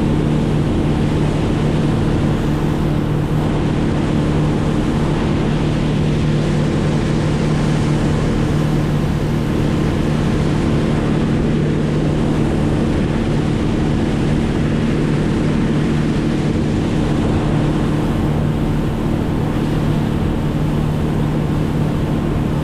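An engine running steadily at constant speed, holding one unchanging note throughout.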